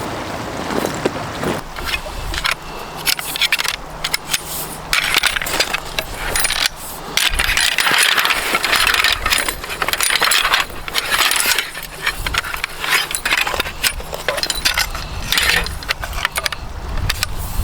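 Busy, irregular metallic clinking and rattling with rustling, like gear being handled, with louder flurries in the middle.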